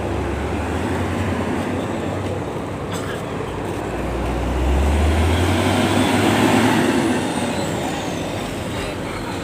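A heavy vehicle's engine rumbling past, swelling from about four seconds in, loudest around five to seven seconds, then fading, over a steady hiss of rain.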